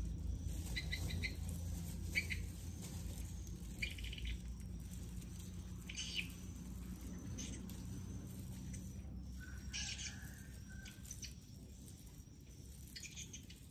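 Small birds chirping, short high calls every second or two, over a low steady rumble.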